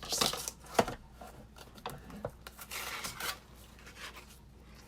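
Card stock and thin metal cutting dies handled on a work surface: paper rustling and sliding, with one sharp tap just under a second in and a longer rustle around three seconds in.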